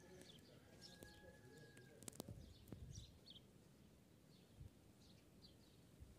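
Faint, scattered chirps of small birds over a very quiet outdoor background, with a few soft clicks a little over two seconds in.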